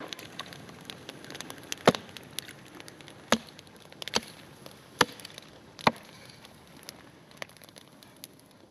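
Chopping: a series of sharp knocks, five loud ones about a second apart, with fainter clicks between them.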